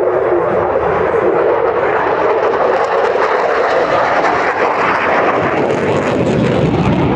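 Fixed-wing aircraft flying past: a loud, steady rushing engine noise that swells in the middle and deepens near the end.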